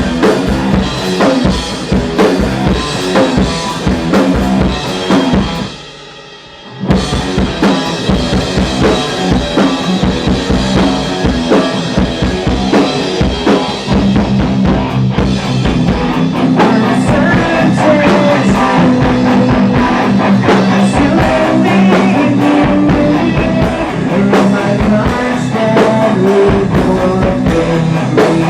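Rock band rehearsing: drum kit and guitar playing loudly, with a brief break about six seconds in before the band comes back in.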